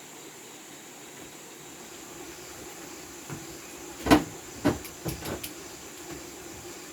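About six sharp knocks from about three seconds in, the loudest about four seconds in and the rest quicker and lighter, over a steady faint hiss.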